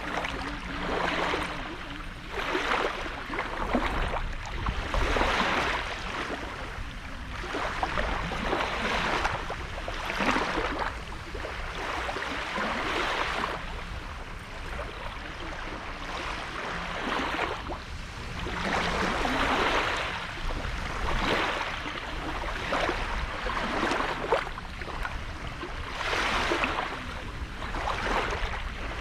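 Small sea waves breaking and washing up the shore one after another, a rushing surge every couple of seconds.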